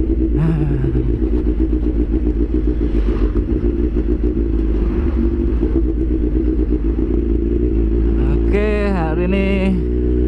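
Kawasaki H2 Carbon's supercharged inline-four engine running steadily at cruising speed, heard from on the bike.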